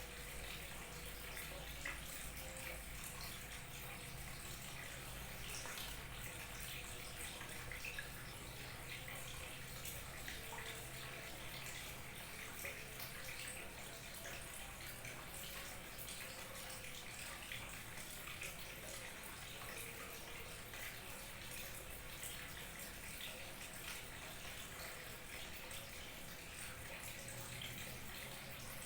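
Small waterfall, with water trickling and splashing steadily and many small splashes and drips over it.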